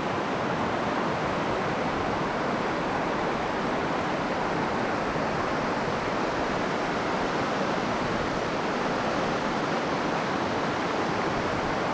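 Steady rush of a mountain stream running high after rain.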